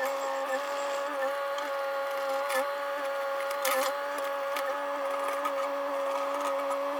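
Mini excavator's engine running at a steady speed with a constant whine, with a few short knocks about two and a half, three and a half and four and a half seconds in.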